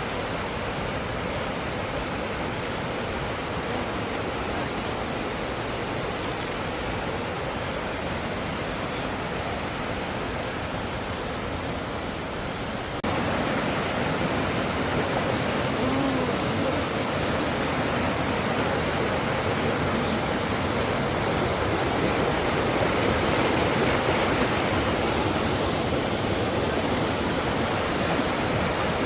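Mountain valley stream water rushing in a steady, even stream of white noise; about 13 seconds in it cuts abruptly to a louder stretch.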